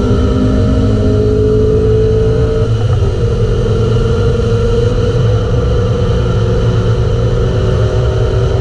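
Honda four-cylinder car engine under hard acceleration, heard from inside the cabin over heavy road and wind noise. Its pitch climbs slowly, breaks briefly about three seconds in, then holds nearly level.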